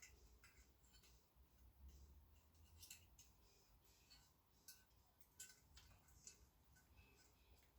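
Near silence with a few faint, scattered clicks and taps of small motorcycle parts being handled and fitted by hand.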